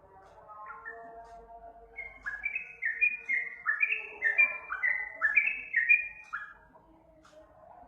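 Yellow-vented bulbul (trucuk) song: soft twittering, then from about two seconds in a four-second run of quick bubbly notes, each falling in pitch.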